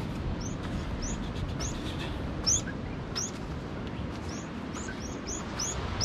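A small bird calling over and over with short, high chirps that slide downward, about two a second, over a low steady rumble of wind or surf.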